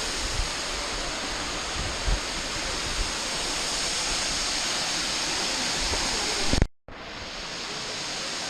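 Waterfall rushing in a steady, even roar. About two-thirds through, the sound cuts out for a split second and comes back slightly quieter.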